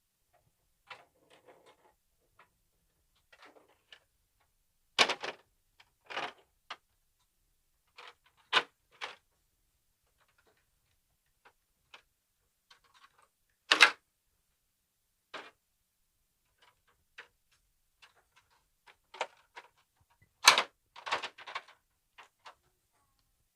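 Scattered knocks, clicks and clatters of hard objects being handled, with short silences between them. Three single knocks stand out, and a quick cluster of clatters comes near the end.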